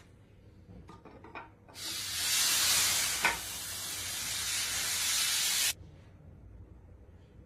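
A pressurised spray hissing for about four seconds, then cutting off suddenly, with a short click partway through.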